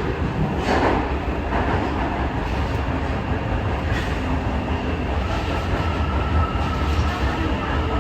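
Kita-Osaka Kyuko 9000 series subway train running, a steady low rumble of wheels on rail with a few faint clicks. A thin whine comes in about five seconds in and fades after a couple of seconds.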